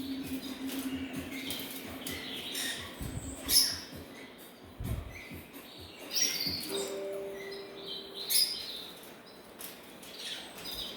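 Many pet birds chirping and calling over one another, with several loud, sharp calls and a few low thumps.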